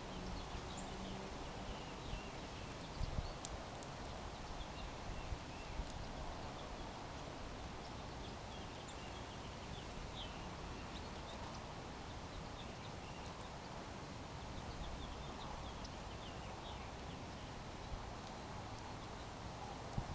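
Small birds at a backyard feeder chirping faintly now and then over steady outdoor background noise, with a few light knocks or taps in the first few seconds.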